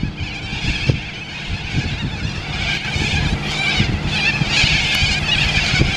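Many birds chattering at once, growing busier in the second half, over a steady low rumble.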